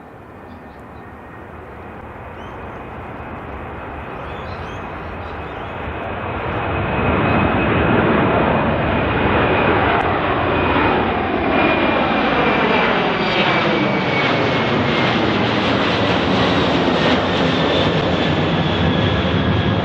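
Airbus A330-200 jet engines at takeoff power. The sound swells to loud about seven seconds in and then holds, with a high engine whine that drops slightly in pitch as the airliner passes.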